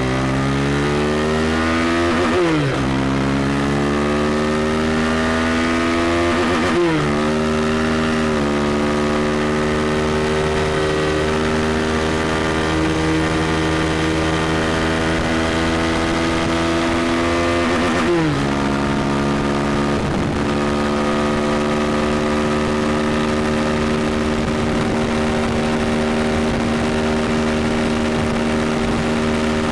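KTM 390 Duke's single-cylinder engine accelerating through the gears. The pitch climbs and drops sharply at upshifts about two and a half, seven and eighteen seconds in, then holds steady at high revs.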